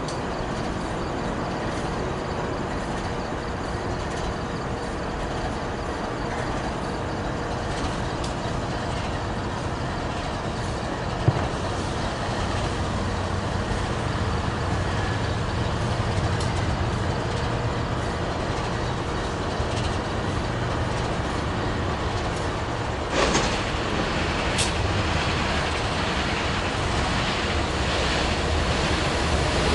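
An approaching BNSF freight train's GE diesel-electric locomotives: a steady rumble, with a low engine drone coming in about halfway through and growing louder near the end as the train draws close. There is a short sharp noise about three quarters of the way through.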